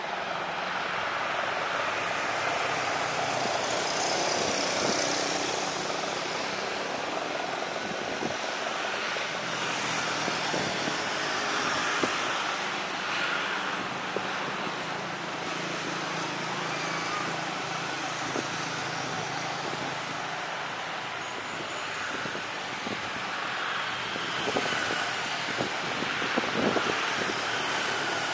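Steady aircraft engine noise mixed with wind hiss, with a few short crackles near the end.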